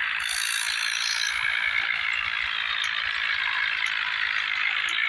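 Swaraj tractor running at road speed, a steady rattling mechanical clatter.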